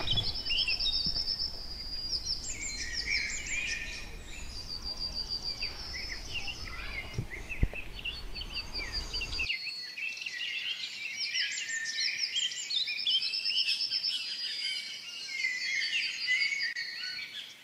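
Several songbirds chirping and singing, with a quick high trill repeated several times. A single light knock about eight seconds in.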